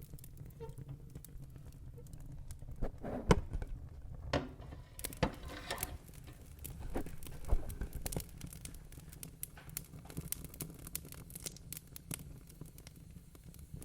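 Wood fire crackling in a fireplace: irregular snaps and pops over a steady low rumble of the flames, with two sharper pops about three and seven seconds in.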